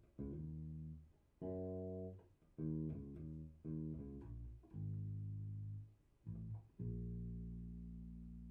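Electric bass guitar, tuned down a half step, played through a Fender Rumble 100 V3 bass combo amp: a short phrase of about seven single plucked notes, each stopped before the next, ending on one long note that is left to ring and slowly fade.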